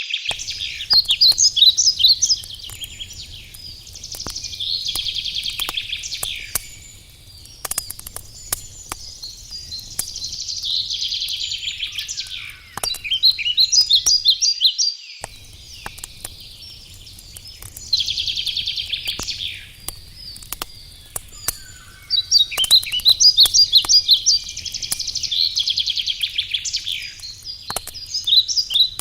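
A songbird singing short, fast trilling phrases of about two seconds, repeated every few seconds, over the crackle and sharp pops of a burning wood campfire with a low steady rumble underneath.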